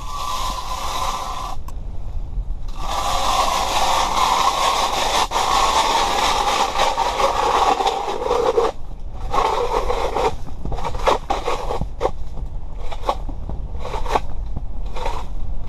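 Scraping on ice, in two long stretches followed by a run of short, separate scrapes.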